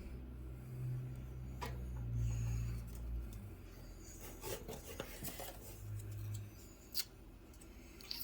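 Scissors cutting cardboard: a handful of short snips and rustles in the second half, after a low hum in the first few seconds.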